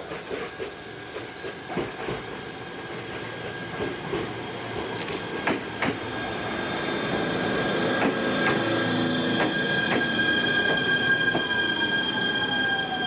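Old JNR-type electric train running on the rails, growing louder, with wheels clicking over rail joints and a squealing whine; a tone falls steadily in pitch near the end as the train slows.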